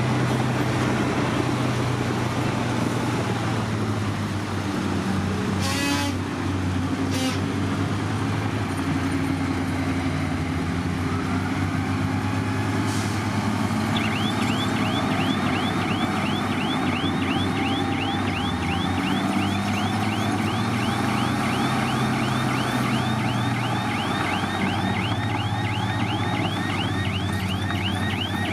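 A bulldozer's diesel engine running under changing load, with two sharp knocks about a quarter of the way in. About halfway through, its reversing alarm starts, a rising chirp repeating about three times a second.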